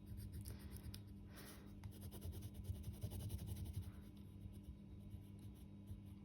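Faint scratching of colouring strokes on a paper drawing sheet, many short repeated strokes, over a low steady hum.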